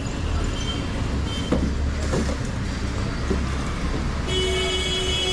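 Street traffic running past with a steady low rumble of engines, and a vehicle horn sounding a steady tone for over a second near the end.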